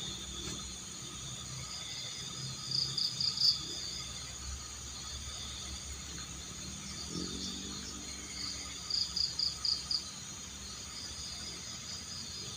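Night chorus of crickets and frogs: a steady high-pitched buzz, with two louder pulsed trills of about five pulses each, about three seconds and nine seconds in.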